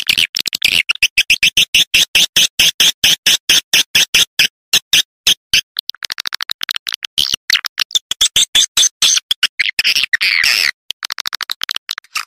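Swiftlet lure call: a loud, fast run of short, high, chirping pulses of swiftlet twitter, about ten a second, broken by a few brief gaps. It is the kind of recording played to call swiftlets in.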